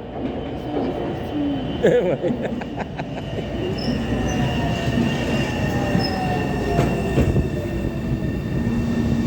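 MBTA Orange Line subway train running: a steady rumble with several steady high-pitched whines and a lower tone that slides slowly down in pitch, and a few clicks about two seconds in.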